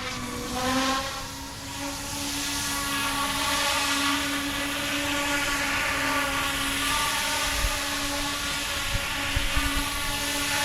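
Small electric RC helicopter (GooSky E2) in flight in idle up 2, its rotor head spinning at higher speed: a steady whine with many overtones from the rotor and motor.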